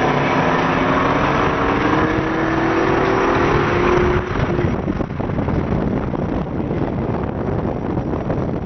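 Car engine pulling hard under acceleration, its pitch rising steadily for about four seconds, then falling off abruptly and settling into steady engine and road noise.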